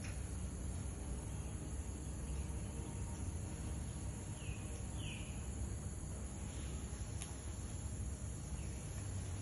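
Outdoor ambience: steady high-pitched insect chirring over a low rumble, with two short chirps about halfway through.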